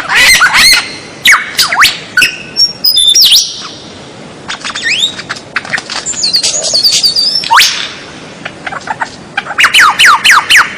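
White-rumped shama singing a rapid, varied phrase of loud whistles, with notes sweeping up and down, and a quick run of about six falling whistles near the end.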